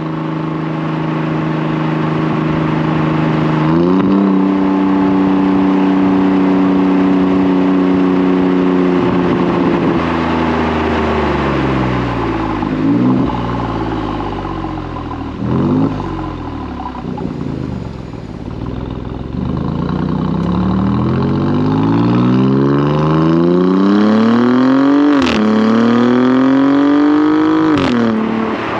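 Stock exhaust of a 2018 Alfa Romeo Giulia Quadrifoglio's twin-turbo V6 while driving. The engine note holds steady, falls and rises with the throttle, then climbs under hard acceleration. Near the end come two quick upshifts, each with a sharp crack as the pitch drops.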